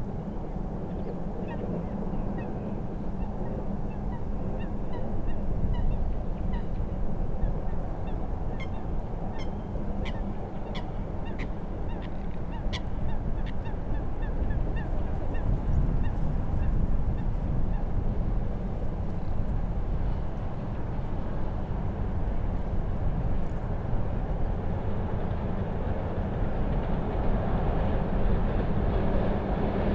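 Birds calling in short, repeated notes over a steady low rush of wind and lake waves; the calls thin out after about twenty seconds.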